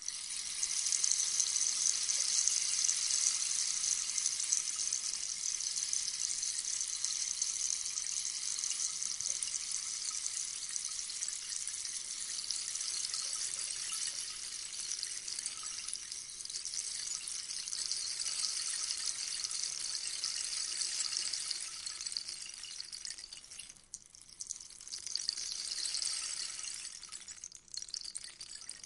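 Rainstick: small beads trickling down through the tube in a continuous, rain-like patter. It thins out about 23 seconds in, swells again, then dies away near the end as the fill runs out.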